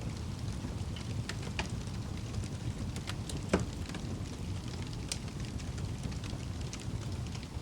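Wood fire burning in a fireplace: a steady low rumble of flames with scattered crackles and pops, one louder snap about three and a half seconds in.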